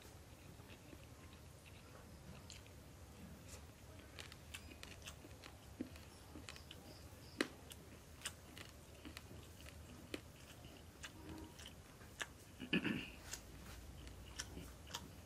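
A man chewing and biting chicken biryani close to the microphone: quiet mouth sounds with many small wet clicks and crunches, and one louder, brief noise near the end.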